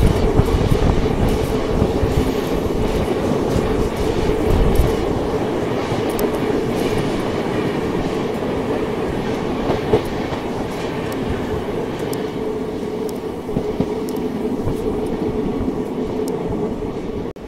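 Moving Indian passenger train heard from an open coach window: steady running rumble and wheel clickety-clack over the rails, with the rush of a second passenger train passing on the next track. Loudest in the first few seconds, then gradually easing as the other train draws away.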